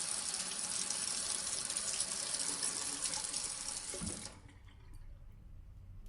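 Bathroom sink faucet running steadily into the basin, then stopping abruptly about four seconds in.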